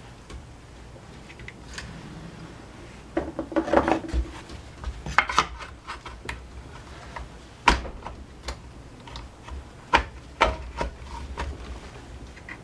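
Hands fitting parts back onto a Honda UMK-422 trimmer with tools: irregular clicks, knocks and rubbing. The sharpest knocks come about two-thirds of the way through and near the end.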